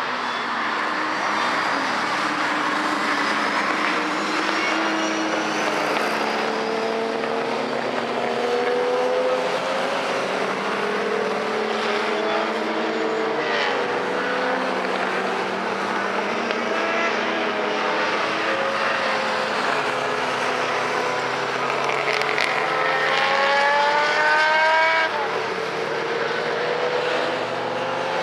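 Historic racing car engines at full throttle, several overlapping as cars pass, pitch climbing and falling through the gears. The loudest is a long climbing rev about three-quarters of the way in that drops off sharply.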